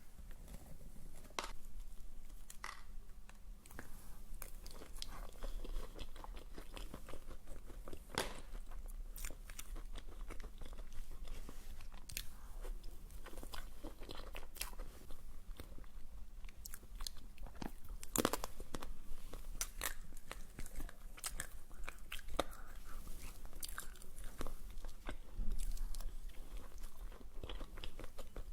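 Close-miked eating of a dessert: crunchy bites and chewing, with irregular sharp crackles throughout.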